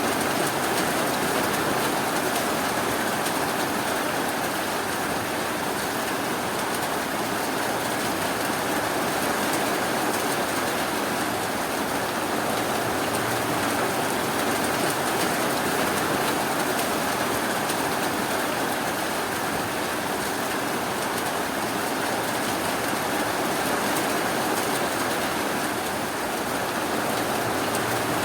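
Steady rainfall, an even, unbroken hiss with no thunder or single drops standing out.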